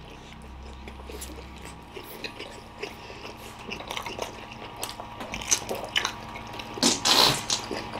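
Wet chewing and mouth noises from people chewing whole mouthfuls of big momo dumplings, with many small smacking clicks that grow busier from about halfway. A louder breathy burst comes about a second before the end.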